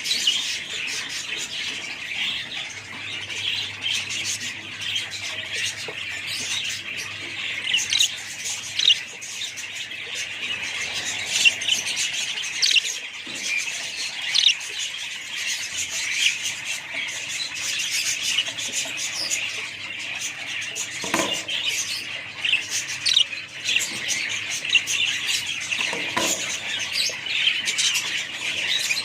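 A flock of small parrots, such as budgies or lovebirds, chattering nonstop with many overlapping high chirps and squawks.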